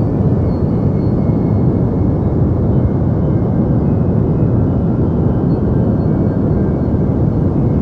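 Deep white noise for sleep: a steady, unbroken rumbling hiss, heaviest in the bass and muted in the treble.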